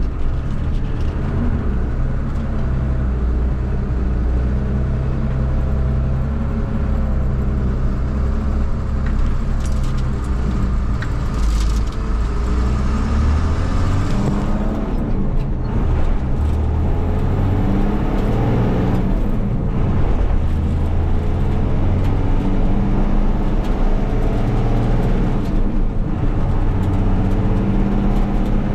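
A truck engine running steadily under way, its pitch rising and falling with changes in speed.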